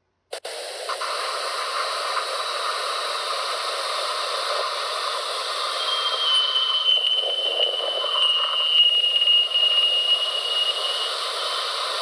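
NASA's 'Voyager plasma sounds', Voyager spacecraft plasma-wave data converted to audio: a steady static-like hiss that starts abruptly. About halfway in, a thin whistling tone rises out of the hiss and fades out near the end.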